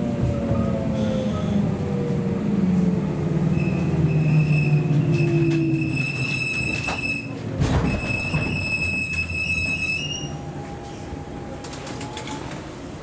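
JNR Series 117 electric train heard from inside the car as it slows into a station: the whine of the running gear falls in pitch, then the brakes squeal with a high steady tone from about four seconds in to about ten seconds, with a few knocks. Near the end a lower squeal is heard as the train comes almost to a stop and the noise dies down.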